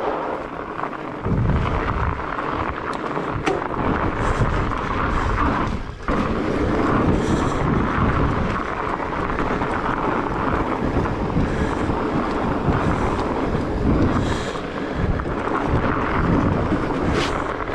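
Wind buffeting the microphone over the rumble of a fat bike's studded tires rolling on snow and ice, with a brief lull about six seconds in.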